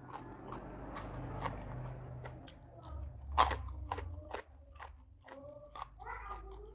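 Close-miked crunching and chewing of raw jengkol (dogfruit) beans, with wet mouth clicks and smacks throughout; the loudest crunch comes about three and a half seconds in.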